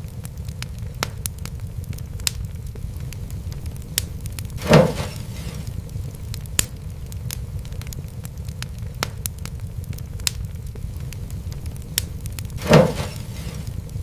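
Wood fire burning in a fireplace: a steady low rumble with scattered sharp crackles, and two louder pops about eight seconds apart, each trailing off briefly.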